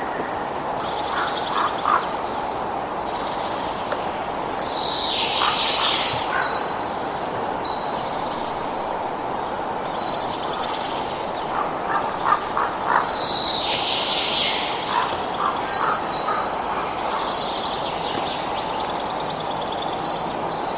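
Several birds calling, with repeated higher calls and short runs of quick lower calls, over a steady rushing background noise.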